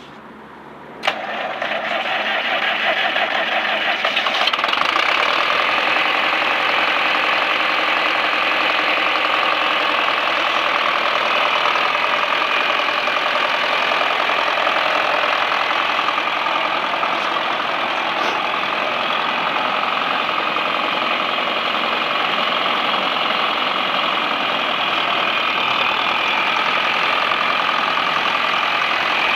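1964 John Deere 3020's four-cylinder diesel engine being started: a click about a second in, the engine cranking and catching over the next few seconds, then settling into steady running.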